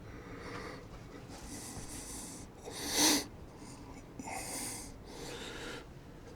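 A person's breathing: several separate breaths, with a louder, sharper one about three seconds in.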